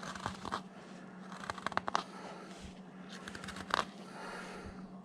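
Small upsweep skew knife paring and shaving wood by hand: light scraping cuts, with a quick run of sharp clicks about two seconds in and another sharp click near four seconds.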